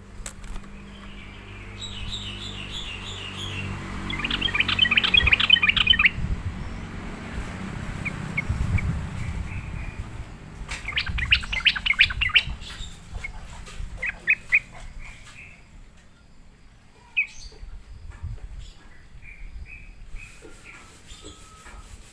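Yellow-vented bulbul (trucukan) song: bursts of quick bubbling chirps, loudest about four to six seconds in and again around eleven to twelve seconds, thinning out to scattered notes in the second half.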